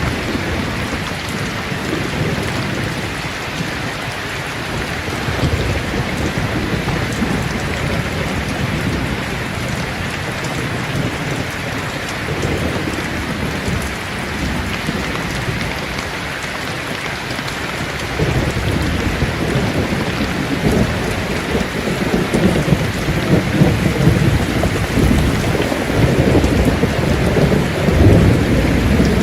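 Steady heavy rain with rolling thunder; the low rumble grows louder about two-thirds of the way in.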